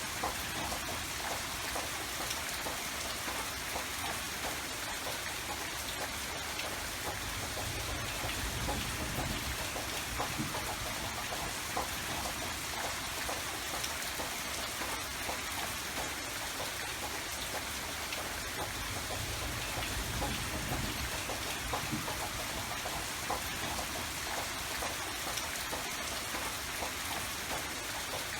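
Steady rain falling, a dense patter of drops, with a low rumble swelling up twice.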